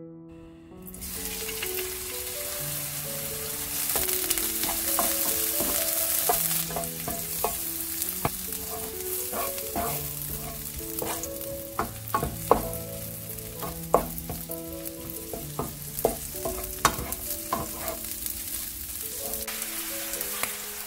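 Shrimp sizzling in hot oil in a nonstick frying pan, starting about a second in. A spatula stirs them, with sharp clicks and scrapes against the pan through the middle. Near the end beaten egg is poured into the pan.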